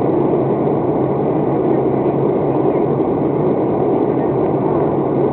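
Airliner cabin noise in flight: the steady, even rush of engines and airflow heard from inside the passenger cabin, with a faint steady hum beneath it.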